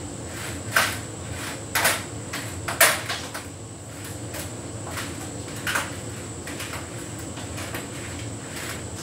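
Hotpoint heat pump tumble dryer running: a steady hum from the machine while the laundry drops and knocks against the turning drum, with sharp knocks about a second apart in the first three seconds, the loudest about three seconds in, and another near six seconds.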